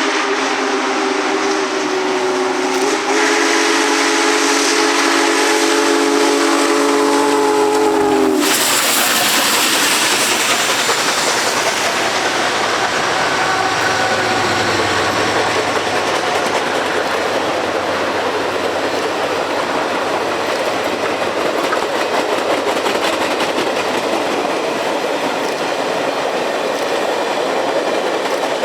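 Union Pacific Big Boy 4014's chime steam whistle blowing a long, steady blast that cuts off about eight seconds in. The 4-8-8-4 steam locomotive and its train then pass close by, wheels clicking over the rail joints.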